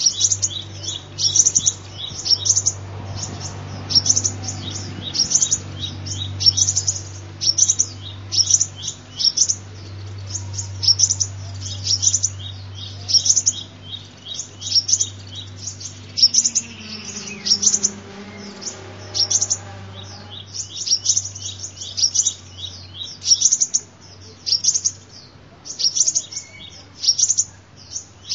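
Sunbird calling: short bursts of high, thin chirps repeated about once or twice a second without letup, over a steady low hum.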